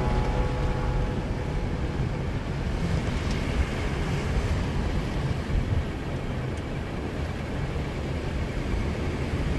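Full-size 4x4 pickup truck driving steadily through deep sand, its engine and drivetrain giving a continuous low rumble.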